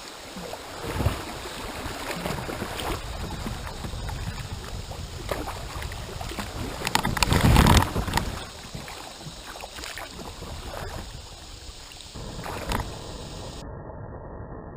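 Kayak being worked over a log: paddle strokes splashing and the hull knocking, with a sharp knock about a second in and a loud rush of splashing noise about seven seconds in.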